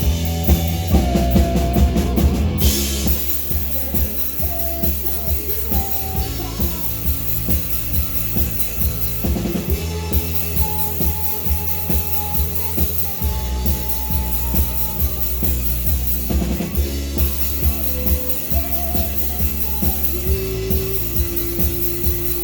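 Live rock band playing: a drum kit keeps a steady beat under bass and guitar, with long held melody notes over the top.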